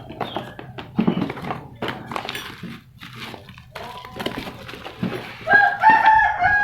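Scattered knocks and clatter of a box and packaging being handled. About five and a half seconds in, a rooster starts crowing loudly over it; the crow is the loudest sound and runs on past the end.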